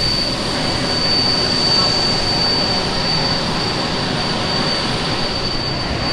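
Steady loud mechanical background noise with a constant high-pitched whine running through it.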